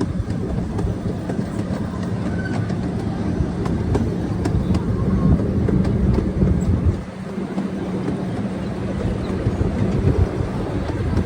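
Small tour train running along its track, a steady low engine hum and rumble with scattered clicks from the wheels on the rails.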